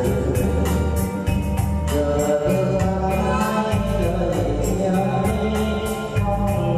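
A voice singing a song over an electronic keyboard backing with a steady beat and a heavy bass line.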